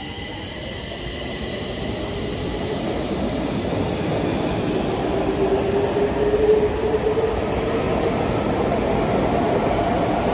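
Stockholm Metro train running on the track, its rumble growing louder over the first several seconds, with a faint tone that rises slightly in pitch midway.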